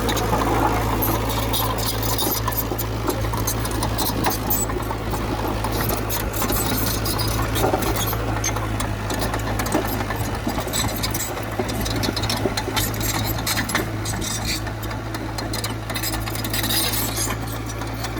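Crawler bulldozer's diesel engine running steadily, with a constant low drone and a fast, irregular metallic clicking and clatter from the machine.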